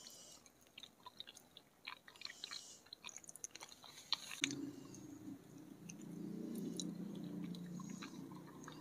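Soft, wet chewing and small mouth clicks of someone eating a soft milk pudding. From about halfway, a low steady hum joins in.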